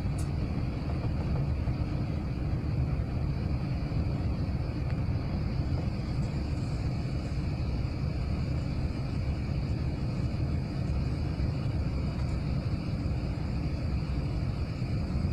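Airbus A380 cabin noise: a steady rumble of engines and airflow heard from inside the passenger cabin, with a faint steady whine above it.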